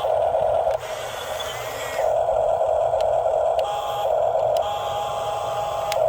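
Small electric motor and plastic gearbox of a radio-controlled model truck whining steadily. It drops back briefly about a second in, then runs hard again, with a few faint clicks.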